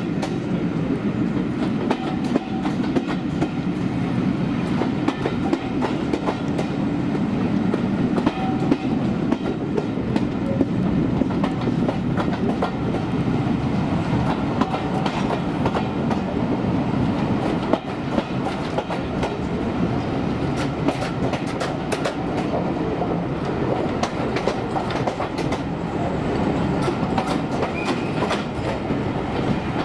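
Passenger train running along jointed track, heard from an open carriage window: a steady rumble from the coach wheels with frequent irregular clicks and clacks over the rail joints and points.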